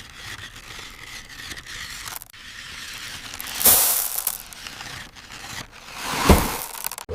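Scraping, rustling and crunching noise, like loose material being scraped or shifted, with a louder burst about three and a half seconds in and a sharp crunch near the end.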